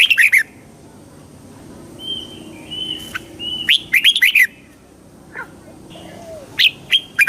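Red-whiskered bulbul singing: three short phrases of quick, pitched notes, with softer held whistles between them.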